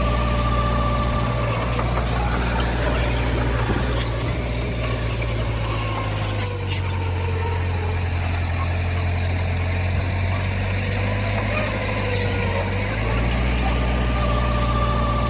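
Heavy diesel earth-moving machinery running steadily under load, its low engine drone shifting in pitch about halfway through and again near the end.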